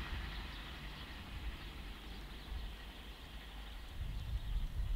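Low rumble and hiss of an SA134 diesel multiple unit receding down the line, swelling about four seconds in.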